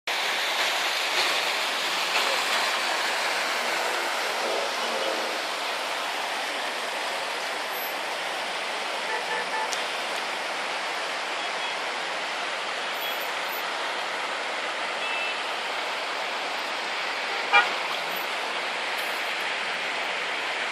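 Steady hiss of heavy rain mixed with road traffic at a street intersection, with a few short car-horn toots midway and a sharp knock about three-quarters of the way through.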